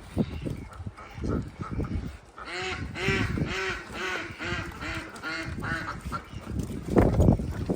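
A duck quacking a rapid run of about ten calls, roughly three a second, with low rustling and knocking sounds around it that grow louder near the end.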